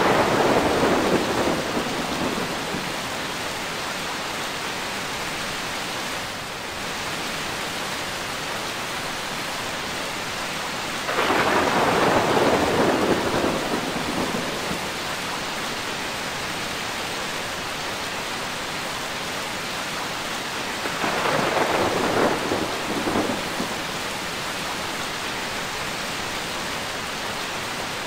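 Steady rain falling, with three rolls of thunder: one already rumbling at the start, another about eleven seconds in, and a third about twenty-one seconds in, each lasting two to three seconds.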